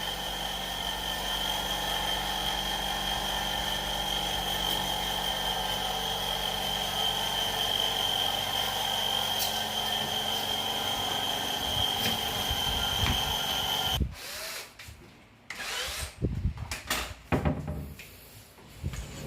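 A power tool running steadily with a constant high whine, cutting off abruptly about fourteen seconds in, followed by scattered knocks and clatter.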